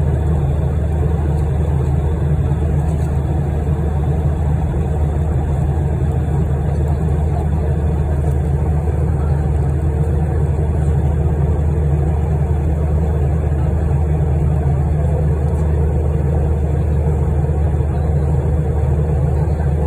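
Cabin noise of an aeroplane cruising at about 450 mph: a loud, steady, low engine and airflow drone that does not change.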